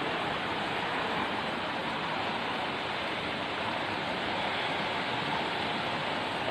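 Floodwater rushing, a steady, even rush of flowing water.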